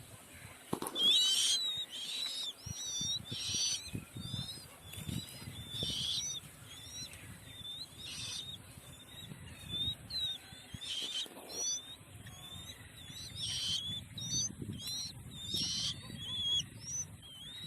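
Birds calling: many short, high chirps with quick up-and-down pitch glides, coming in irregular runs, with a few brief noisy bursts and a low rumble underneath.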